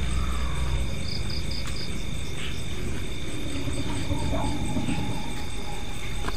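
Night insects, crickets among them, chirring steadily, with a high pulsing chirp repeating about four times a second over a low rumbling background noise.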